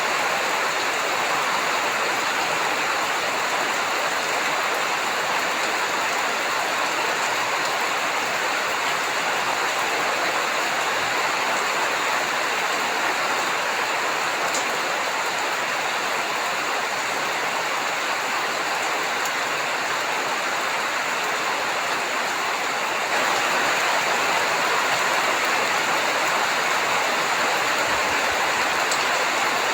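Heavy rain falling steadily in a dense, even hiss, growing slightly louder about two-thirds of the way through.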